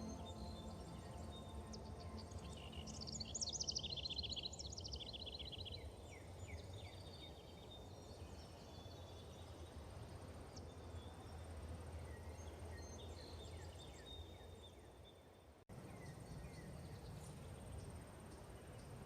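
Forest ambience: wild birds singing and chirping, with a fast trill of repeated notes about three seconds in, over a steady low background rumble. Near the end the sound fades and then cuts back in abruptly.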